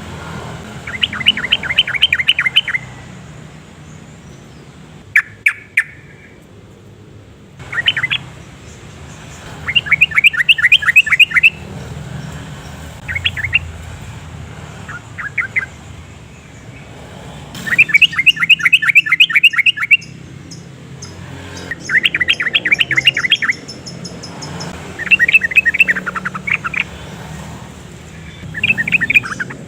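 Yellow-vented bulbul singing: short, rapid phrases of bubbly notes, repeated every few seconds, over a faint low hum.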